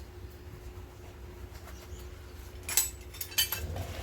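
A few sharp metallic clinks, about three seconds in, of a ball joint press and its adapter cups being handled and set against the control arm, over a steady low hum.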